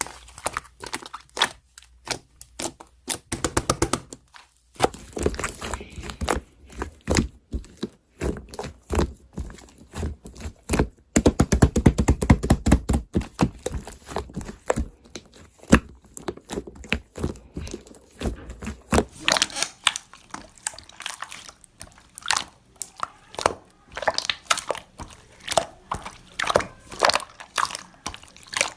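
Slime being squished, poked and stretched by hand, giving a dense run of crackling clicks and crunches. The clicks grow thicker and faster through the middle stretch.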